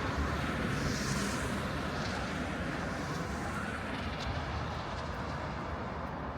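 City street traffic: a steady rush of passing vehicles and tyre noise.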